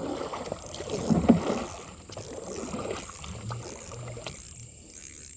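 Water and handling noises of a kayak on a creek, the hull and gear knocking and sloshing while a fish is played. A faint, evenly pulsing insect chirp runs high above.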